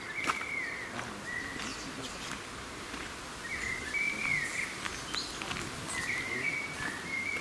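A songbird singing short warbled phrases every second or two, over a faint steady outdoor hiss.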